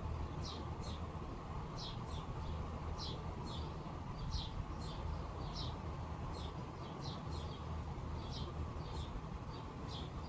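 A bird calling with short, high, downward-sliding chirps repeated about twice a second over a steady low rumble.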